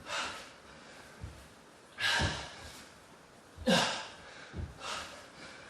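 A man breathing hard in loud, sharp, rasping breaths every second or two, with dull low thuds between them, while he does burpees at full effort.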